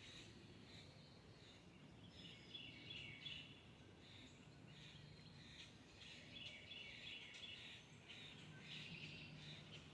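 Faint background bird chirping, coming and going every second or so, over a low steady hum.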